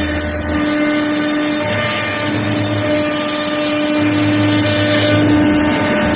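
CNC router spindle running and cutting into a wooden panel: a steady pitched tone over a high hiss, with a lower hum that starts and stops every second or two.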